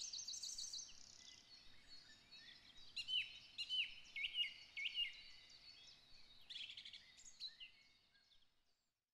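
Woodland birds singing and chirping, faintly, with a run of repeated down-slurred notes in the middle; the song dies away about eight seconds in.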